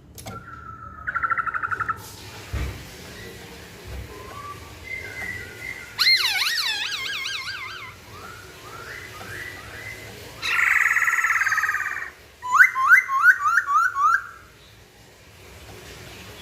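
Masked laughingthrush (Hong Kong poksay) singing a varied song: a short trill, then warbling whistles, a harsh buzzy note, and a quick series of rising whistled notes near the end.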